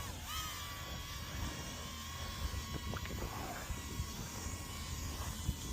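Small drone's propellers whining at a steady pitch, with wind buffeting the microphone in a low, uneven rumble.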